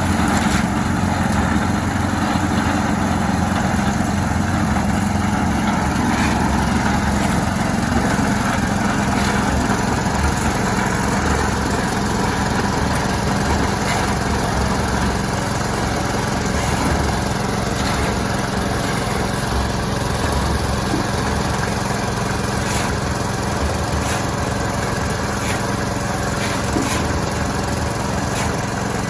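Small engine of a portable concrete mixer running steadily at a constant speed, with occasional faint clicks and knocks over it.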